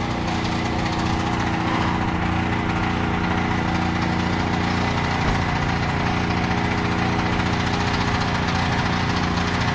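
Portable generator's small engine running steadily at constant speed.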